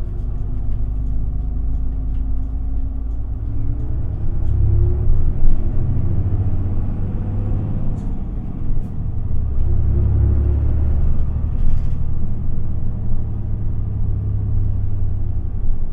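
Interior ride sound of an Isuzu Erga city bus's diesel engine pulling the bus along, with a heavy low rumble. Its pitch climbs over the first few seconds as the bus gathers speed, and the rumble swells twice more, about four seconds in and again around ten seconds.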